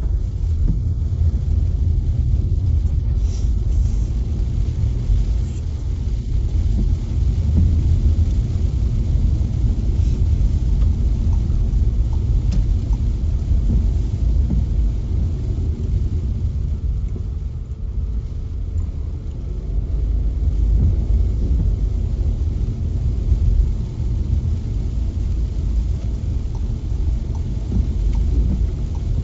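A car driving, heard as a steady low rumble of road and engine noise that eases a little past halfway and then builds again.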